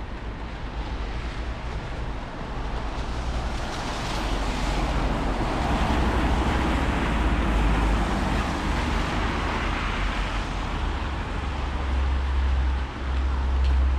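Rainy street ambience: a car's tyres hiss past on the wet road, swelling to a peak around the middle, over steady low wind rumble on the microphone that grows stronger near the end.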